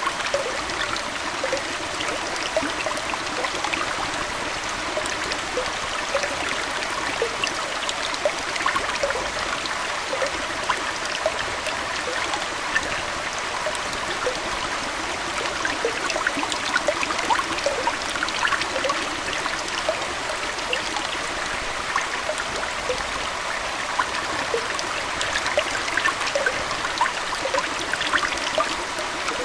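Aquarium water trickling and bubbling steadily, like a small stream, with many brief little pops and plinks throughout.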